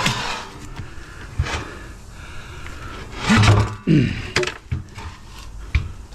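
Knocks and clatter of curbside scrap being picked up and moved, with a short grunt-like vocal sound about three to four seconds in.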